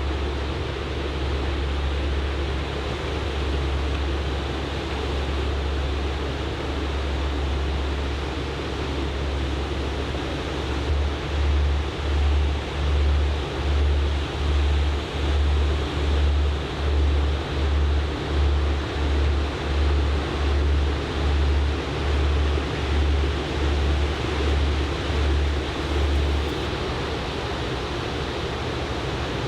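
Steady rush of ocean surf breaking on a beach under typhoon swell, with a deep wind rumble on the microphone. From about a third of the way in until near the end, a deep throbbing pulses about once or twice a second, then returns to a steady rumble.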